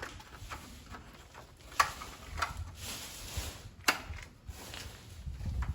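Handling noises: scattered clicks and knocks, two of them sharp and loud about two seconds apart, with a low rumble building near the end.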